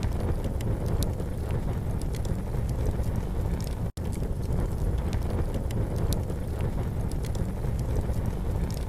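Campfire crackling: scattered small pops over a steady low rumble. The sound cuts out for an instant about four seconds in.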